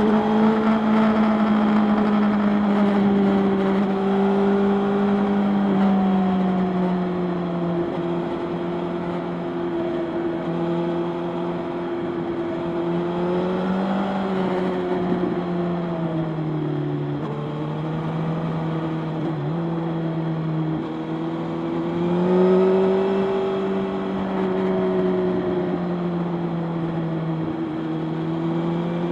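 Motorcycle engine running at a steady cruise, its note sagging slowly through the middle and rising again about two-thirds of the way in.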